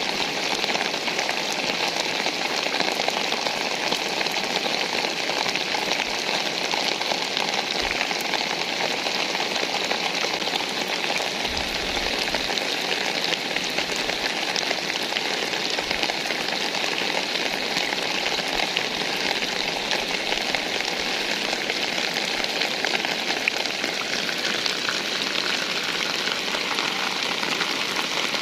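Steady rain falling on surfaces, an even unbroken patter.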